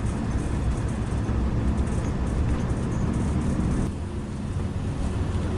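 Intercity coach bus on the move, its engine and road noise heard as a steady low hum, dipping slightly about four seconds in.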